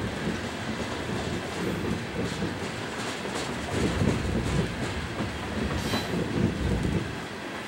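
Loaded coal hopper cars of a long freight train rolling past on the upgrade: a steady rumble of steel wheels on rail, with scattered clatter, somewhat louder in the second half.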